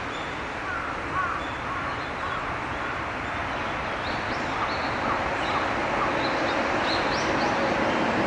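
Birds calling over a steady rush of traffic noise: a few short lower calls in the first two seconds, then a run of short high chirps through the second half. The background grows slightly louder toward the end.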